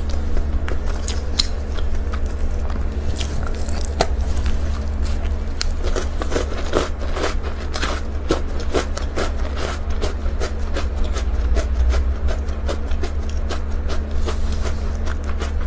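A person eating Oreo chocolate cake: a rapid run of short bites, crunches and wet mouth sounds, several a second, over a steady low hum.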